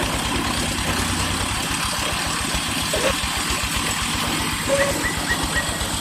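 Small engine idling steadily with a rapid, even low beat, and a few short high chirps in the second half.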